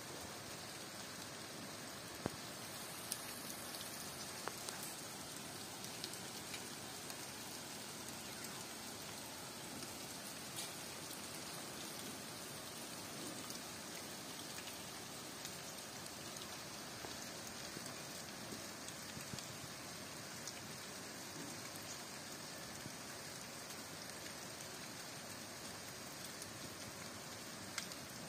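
Light rain falling on rainforest foliage: a steady, even patter with scattered single drops ticking close by.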